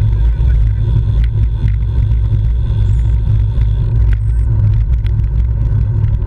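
Steady low rumble of wind buffeting and road noise on a bicycle-mounted camera's microphone while riding, with scattered small clicks and ticks.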